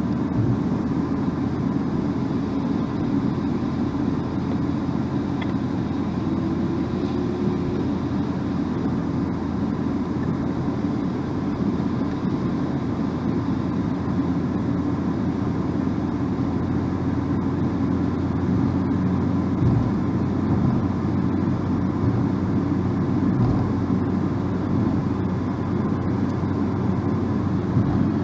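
Steady road and engine noise of a car driving along, heard from inside the cabin: a low, even rumble that does not change.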